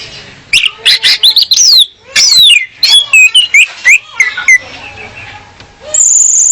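Female orange-headed thrush calling: a quick, loud run of sharp chirps and falling whistles, a brief lull, then a steady high shrill note near the end.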